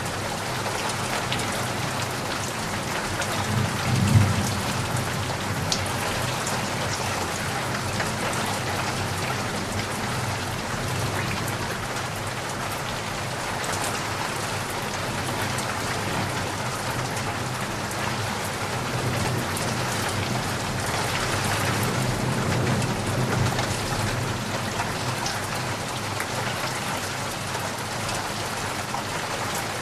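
Steady rain falling, a dense hiss of drops with scattered sharper drip ticks. A low rumble swells briefly about four seconds in and again for a few seconds past the middle.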